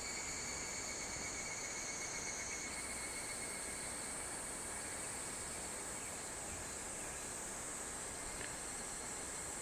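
Summer insects, such as cicadas, calling in a steady chorus, a high shrill band that jumps a little higher in pitch about a third of the way in, over an even background hiss.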